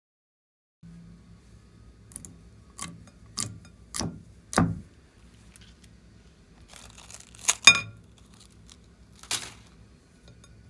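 Clear slime being handled: five sharp clicks or pops about half a second apart, each louder than the last, then a burst of crackling with two loud snaps and one more click near the end, over a low hum.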